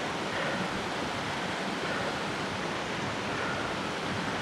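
Steady rushing noise from riding a studded-tire fat bike: wind on the microphone over the rolling of the tires.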